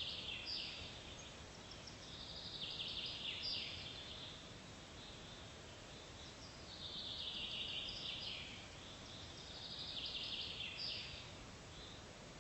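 An animal's high buzzing trill, repeated: four phrases of about a second each, one every three to four seconds, over a faint steady hiss of outdoor ambience.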